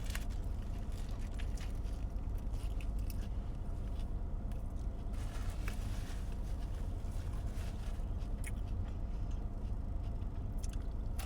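Eating sounds: chewing and biting with faint scattered crunches and clicks, over a steady low hum.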